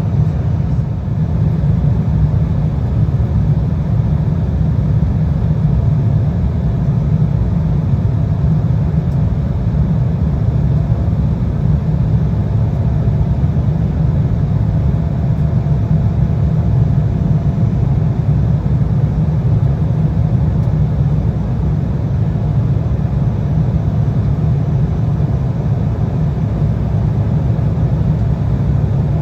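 Steady in-flight cabin noise of an Embraer 175 regional jet: a constant deep rumble of airflow and its two GE CF34 turbofan engines, with a faint steady hum above it.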